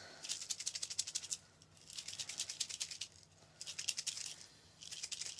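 Snow globe ornament filled with fake snow and glitter being shaken by hand, its loose fill rattling against the shell in four quick bursts.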